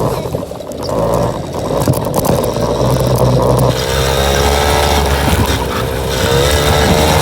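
Suzuki LT50's small two-stroke engine running under way, rough and uneven at first, then holding a steady pitch from about four seconds in.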